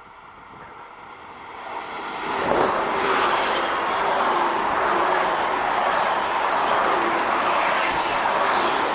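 Train passing through a station: it grows louder over the first two and a half seconds as it arrives, then the steady noise of its wheels on the rails holds at full level.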